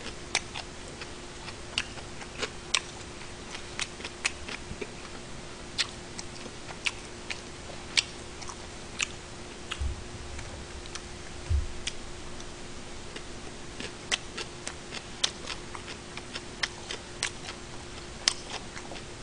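Close-miked chewing of gimbap: irregular sharp wet mouth clicks and smacks, about one or two a second. Two dull low bumps come about ten and eleven and a half seconds in, as chopsticks pick gimbap from its paper tray.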